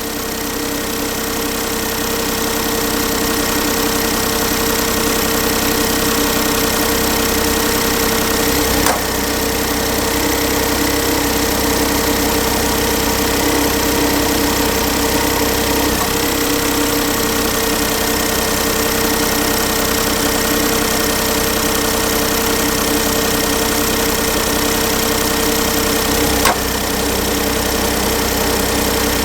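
2008 Smart ForTwo's 1.0-litre three-cylinder petrol engine idling steadily during coil testing for a misfire, which the mechanic thinks shows up only under load, not at idle. Two short clicks, about nine seconds in and near the end.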